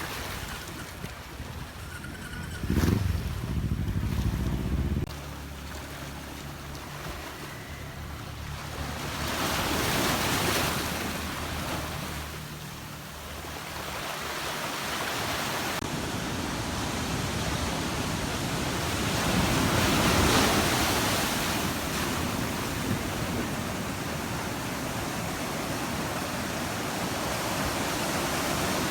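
Ocean surf washing onto a beach, swelling as waves break twice, about ten seconds apart. In the first few seconds there is a loud low rumble of wind on the microphone that stops suddenly.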